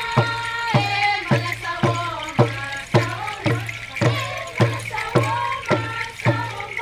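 Traditional Papua New Guinean group song and dance: voices sing held notes over a steady drumbeat, a little under two strikes a second.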